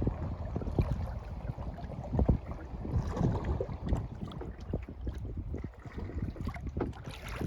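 Kayak paddling: the paddle splashing and dripping in the lake at irregular intervals, with wind rumbling on the microphone.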